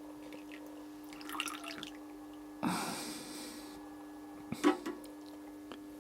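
Water dripping and splashing in the oil-vapour breather filter housing of a 1960 Opel Kapitän engine while it is flushed to test whether liquid passes through. Scattered drips, a splash lasting about a second near the middle, then a few sharp drips over a steady low hum.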